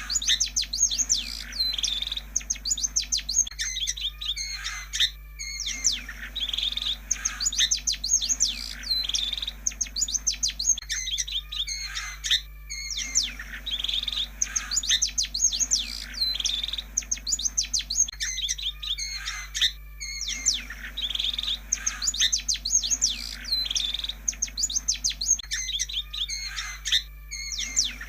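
Long-tailed shrike song: a rapid, varied run of high chirps and warbles. It repeats in a loop about every seven seconds with a short gap between, over a steady low electrical hum. It is a lure recording played to set a quiet shrike singing.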